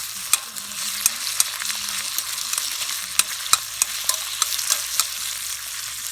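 Pork stomach (gatsu) sizzling as it is stir-fried in a small skillet, with a steady hiss and a string of sharp clicks and pops as it is stirred.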